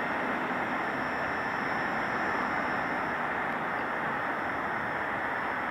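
Train passing on the main line: a steady rush of wheel and rail noise with a faint, steady high whine above it.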